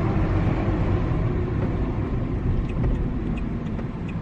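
Steady low rumble of road and engine noise from a car driving along, heard from inside.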